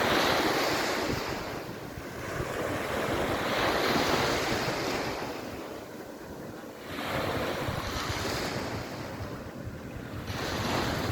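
Sea waves washing onto the beach, swelling and falling back about every three to four seconds, with wind buffeting the microphone.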